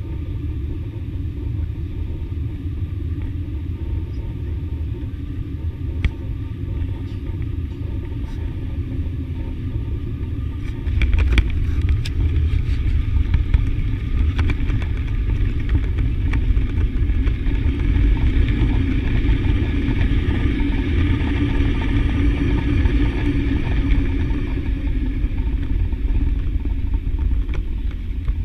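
Airliner cabin noise: a steady deep rumble that turns suddenly louder about eleven seconds in, with a few sharp knocks and rattles, then a broad rush of engine noise that swells and eases off.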